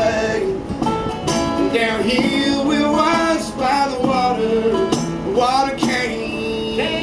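Live acoustic country song: a man singing over a strummed acoustic guitar.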